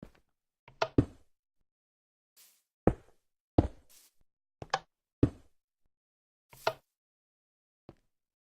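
About ten short, sharp knocks and taps at irregular intervals, with quiet between them.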